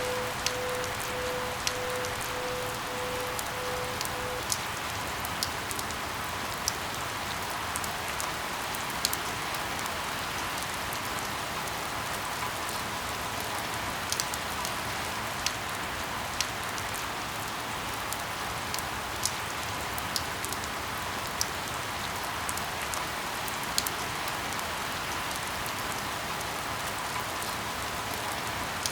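Steady rain falling, with individual drops tapping sharply on a surface every second or so. A faint steady tone sounds under it for the first few seconds.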